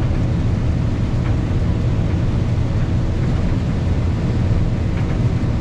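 Heavy farm machinery running steadily during corn harvest: a continuous low engine rumble.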